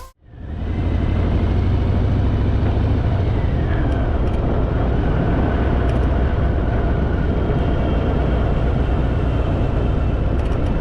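Harley-Davidson motorcycle being ridden along a road: steady engine rumble mixed with wind noise, starting just after a brief gap a moment in.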